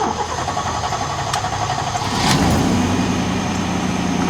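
1993 GMC 1500 pickup's engine being started: the starter cranks for about two seconds, then the engine catches and settles into a steady idle. It starts easily.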